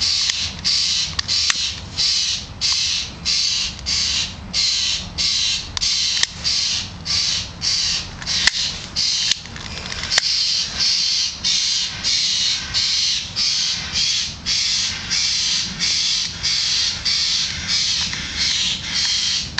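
A bird's harsh, noisy calls, repeated steadily about twice a second, with a short pause about ten seconds in.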